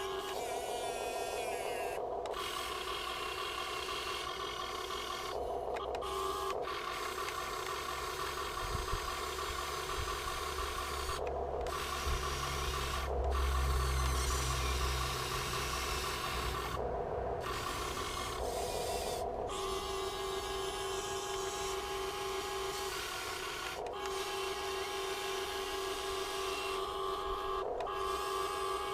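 Huina 1580 RC excavator's electric servos and metal gearing whining as they drive the arm, bucket and tracks, starting and stopping over and over with short pauses between moves. A heavier low rumble joins in for a few seconds around the middle.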